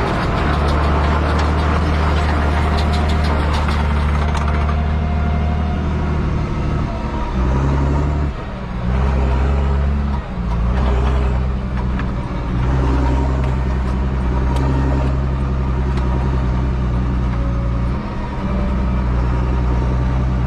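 Same Titan 160 tractor's six-cylinder diesel engine running steadily under load. Its note drops and changes pitch briefly about 8 and 10 seconds in and again near the end, as with throttle or gear changes. Light rapid clicking rides over it for the first few seconds.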